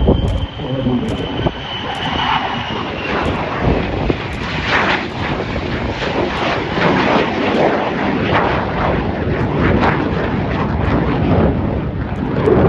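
F-35A Lightning II's Pratt & Whitney F135 jet engine, loud in a display pass. A high whine falls in pitch over the first few seconds and gives way to a rough, crackling roar.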